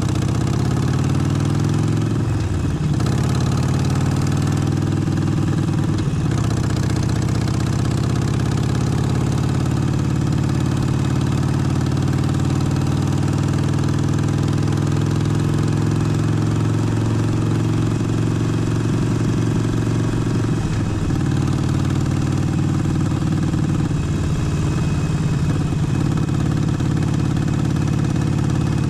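Harley-Davidson Forty-Eight's air-cooled 1200 cc V-twin running steadily, with brief changes in engine note about two, six and twenty-one seconds in.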